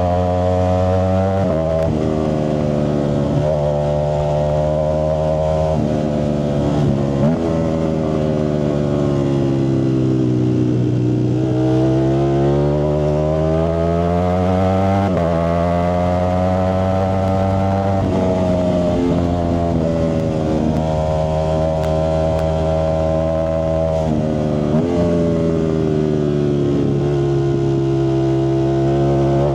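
Ducati Streetfighter V4S's 1103 cc V4 engine through a Zard exhaust, pulling on the move: the engine note climbs and falls with speed and steps abruptly at gear changes about half a dozen times, with one long slow drop and climb in the middle.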